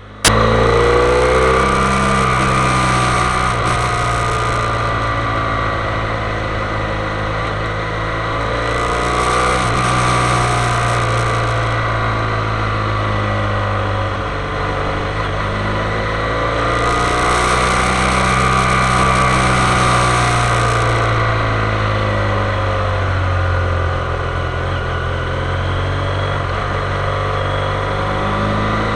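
Motorcycle engine running steadily, its pitch slowly rising and falling as the throttle changes, with a high hiss that comes and goes about three times.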